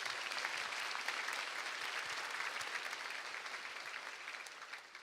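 Audience applauding in a large hall, a steady patter of many hands clapping that tapers off and stops near the end.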